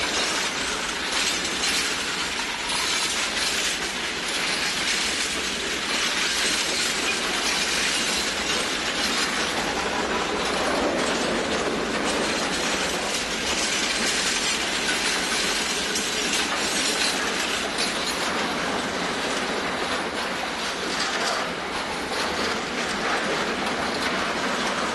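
Freight train wagons rolling past steadily, a continuous clatter of steel wheels on the rails with many small clicks and rattles from the wagons.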